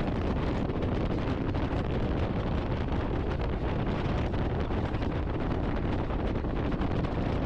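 Steady wind rush buffeting a motorcycle-mounted camera's microphone at freeway speed, with the bike's road noise underneath.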